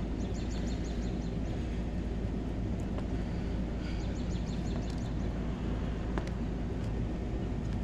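Steady low outdoor rumble, with two short runs of rapid, high-pitched chirps, one just after the start and one about four seconds in, each lasting about a second.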